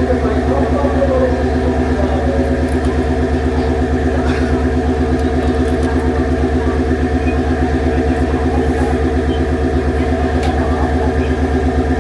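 KiHa 40 diesel railcar's engine idling steadily with an even, fast throb.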